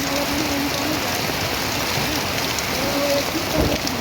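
Heavy monsoon rain falling steadily onto surfaces, with runoff water rushing in a drain. A brief low rumble comes near the end.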